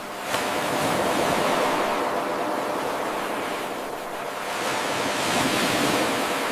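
Ocean waves washing ashore in an even surge-and-ebb, two swells of surf noise. A brief click about a third of a second in marks the seam where the 8-second wave loop restarts.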